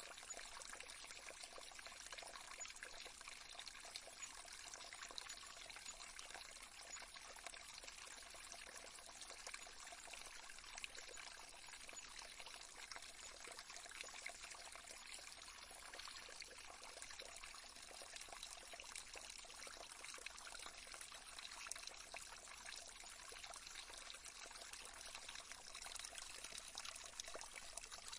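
Faint, steady trickling of a small stream running over stones, a continuous water sound with no change.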